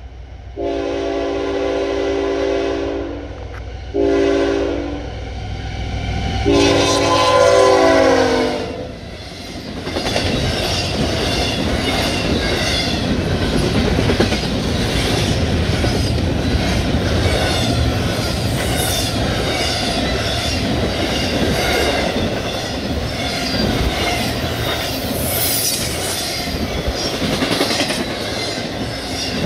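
CSX freight locomotive's multi-chime air horn sounding three blasts, long, short and long, the last one dropping in pitch as the locomotive passes close by. Then a double-stack intermodal train's cars roll past with a steady wheel-on-rail rumble and rhythmic clickety-clack of the wheels.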